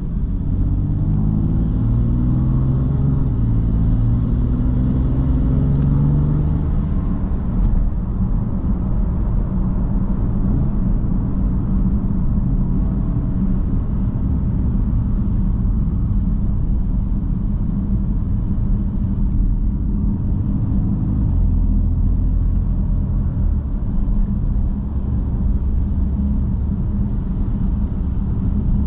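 BMW M3 F80's 3.0-litre twin-turbo inline-six engine and exhaust. For about the first six seconds it pulls with its note rising, then it settles into a steady low drone with road rumble while cruising.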